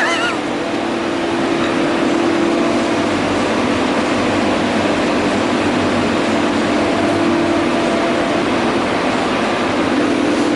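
Steady machine noise: an even hiss with a constant low hum.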